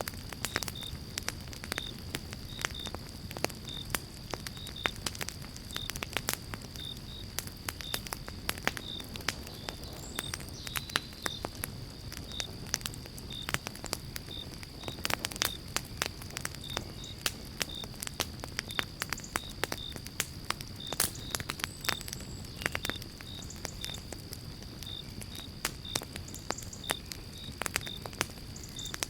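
Pine-log campfire crackling and popping, with frequent sharp snaps over a low rumble of burning. A faint high chirp repeats about twice a second under a steady high tone.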